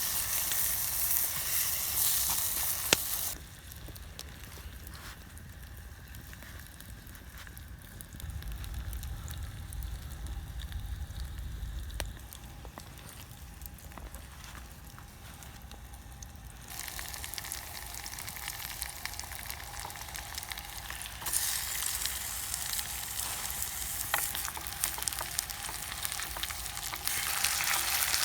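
Food sizzling and frying in an aluminium mess tin over a campfire, a steady hiss with occasional small pops. It drops and rises in loudness abruptly several times.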